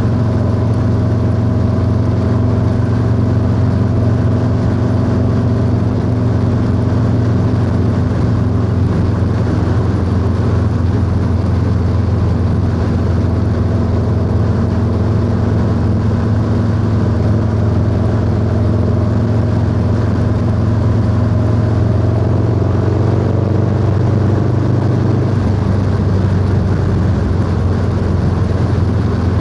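Harley-Davidson Low Rider S V-twin engine running steadily under way, with a slight change in engine note about 24 seconds in.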